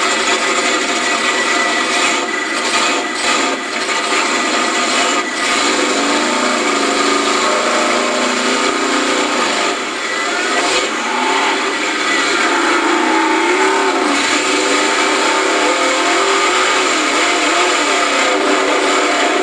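Big-engined mud bog truck running loud in the mud pit. The engine pitch rises and falls as it is revved, over a steady hiss.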